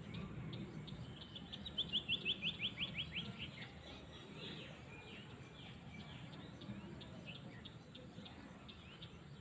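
Small songbirds chirping outdoors. About one and a half seconds in, one bird gives a quick run of notes that falls in pitch, the loudest sound here. Under the birds is a low, steady rumble of outdoor background noise.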